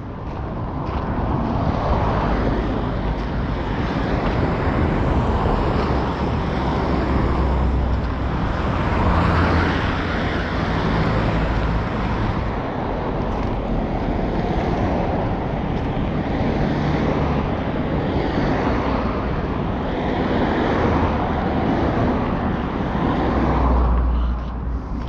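Road traffic passing close by: a continuous wash of tyre and engine noise with a low rumble. It swells about a second in and falls away near the end.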